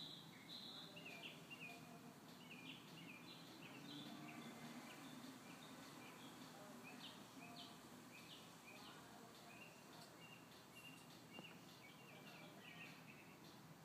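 Faint small-bird chirps, many short repeated notes at an uneven pace, over quiet background noise.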